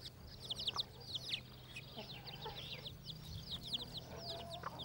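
Newly hatched domestic chicks peeping: a busy, overlapping stream of short, high, falling peeps.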